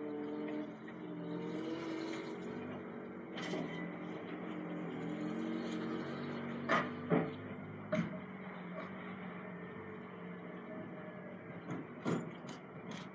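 A lorry running with a steady low hum, with a few sharp clicks about two-thirds of the way through and a quick run of clicks near the end.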